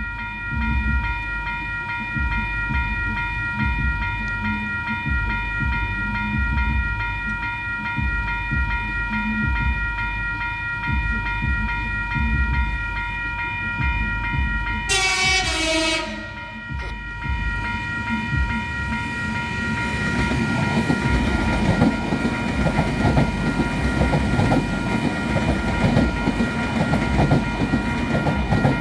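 Level crossing alarm sounding steadily as an Auckland electric multiple-unit train approaches. About halfway through, the train gives one horn blast, about a second long, that drops in pitch at the end. The train then passes close by with a rising rumble and rattle of wheels on the rails.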